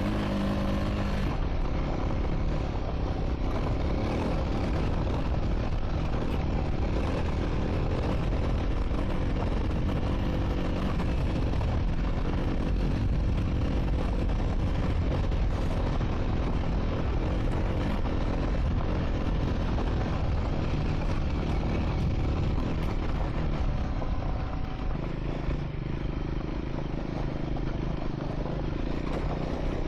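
Triumph Scrambler 400 X single-cylinder motorcycle engine running while riding on a dirt track. About 25 seconds in the engine note steadies and the sound drops a little.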